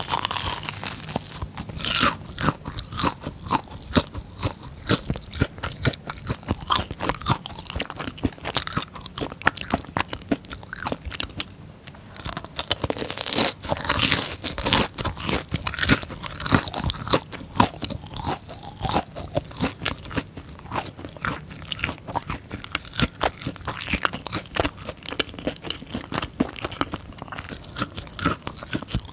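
Close-miked chewing of a crispy fried cream cheese ball: a bite at the start, then continuous crunching with many small irregular crackles, busiest about halfway through.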